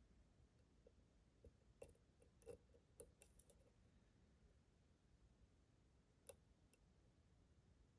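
Faint, scattered metallic clicks of a lock pick and tension wrench working the pins inside a Schlage Primus Everest cylinder, a cluster of them a couple of seconds in and a single click later.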